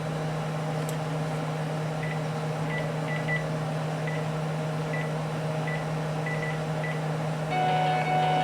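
Cordless phone giving short, high electronic beeps at irregular intervals, like key tones, then near the end starting a louder electronic melody of several tones, like a ringer tune. A steady low electrical hum underlies it.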